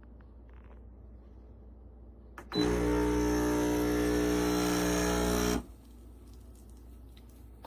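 Compact espresso machine's vibration pump switching on with a click and buzzing steadily for about three seconds, then cutting off abruptly.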